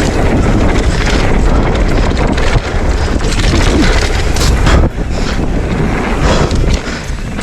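Wind buffeting the microphone on a fast mountain-bike descent, with the tyres rolling over dirt and the bike clattering over bumps.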